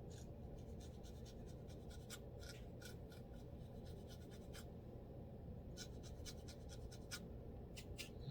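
Scratching at a scalp through the hair to loosen dandruff: quick, irregular short scrapes, over a faint steady low hum.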